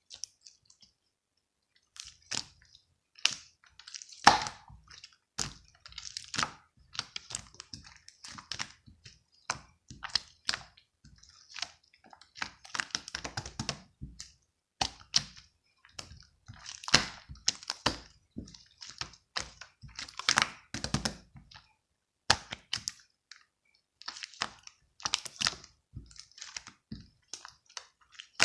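Marbled slime being squished and pressed by hand, giving dense, irregular clicks and crackles.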